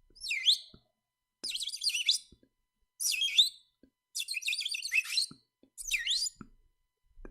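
A bird chirping in a series of short bursts of quick high chirps and rising whistles, each under a second long with brief pauses between.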